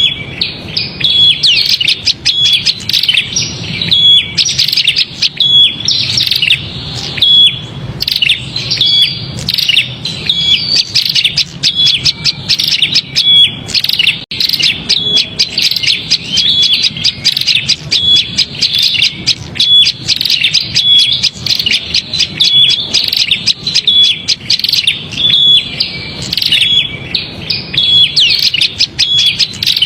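Prenjak (prinia) calling in a loud, agitated chatter of rapid chirps without pause, the phrase coming round about every 1.3 s; this 'noisy prenjak' call is used as a lure to draw small birds in.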